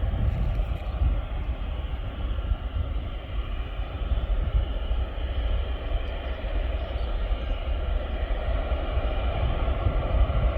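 Airliner engines running steadily: a continuous engine noise with a faint whine over a heavy low rumble.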